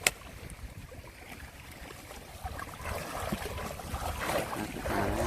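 Sea water washing with wind noise, getting louder partway through, and one sharp click right at the start.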